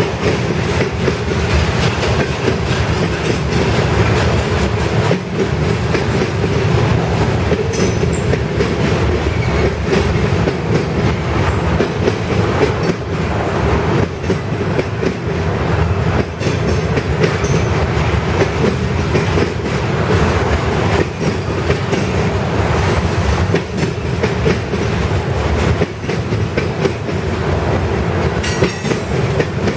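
Freight train cars rolling past: a steady rumble of steel wheels on rail with a clickety-clack of wheels over rail joints.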